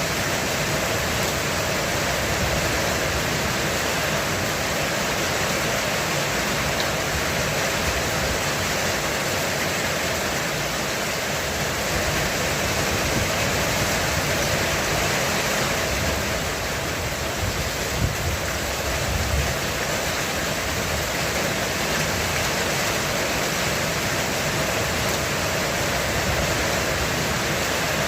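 Heavy rain falling steadily on a roof, an even hiss, with two brief low thumps about two-thirds of the way through.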